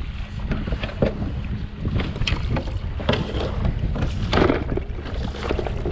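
Strong wind buffeting the microphone, with rough water splashing and slapping irregularly against a Shearwater 125 kayak's hull.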